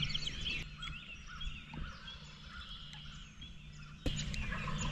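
Wild turkeys gobbling in the distance at dawn, over scattered songbird chirps.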